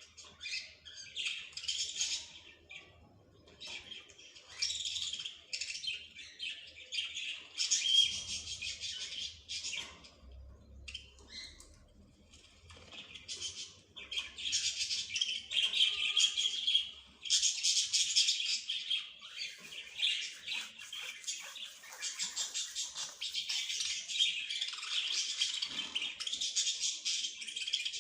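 Small birds chirping and twittering in dense overlapping bouts, with a quieter spell about ten seconds in before the chirping picks up again.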